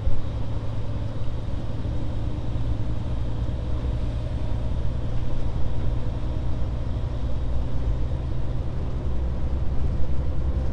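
Scania S500 truck's engine droning steadily with road noise, heard from inside the cab while driving.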